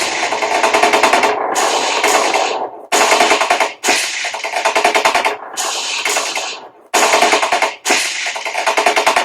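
Machine-gun fire sound effect mixed with dramatic music: rapid rattling bursts, roughly one a second, each cutting in suddenly and dying away. It dramatises the killing of a policeman.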